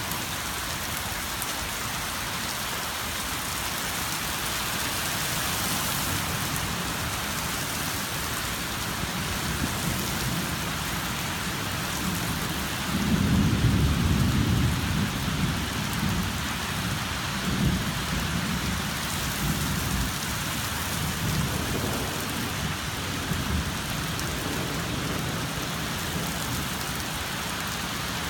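Heavy rain falling in a steady hiss. About halfway through, a long roll of thunder swells up, rumbles loudest for a couple of seconds, then rolls on in fading waves.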